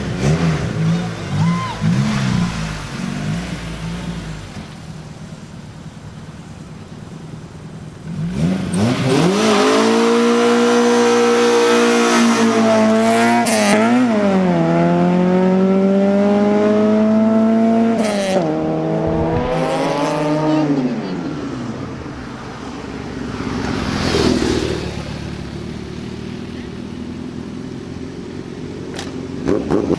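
A vehicle engine revved hard, held at high revs for about twelve seconds with its pitch wavering, then dropping back down. Before that, a lower engine rumble.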